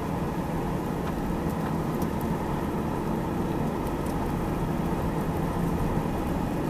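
Steady low engine rumble with no change in pitch or level.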